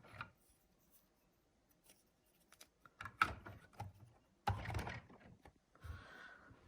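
Light clicks and knocks of plastic LEGO pieces being handled, likely the removable coal load being lifted off or set onto a LEGO hopper car. Brief clusters come near the start, about three seconds in and about four and a half seconds in, with near-quiet gaps between them.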